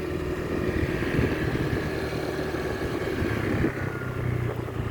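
Motorbike engine running steadily while riding, with road noise.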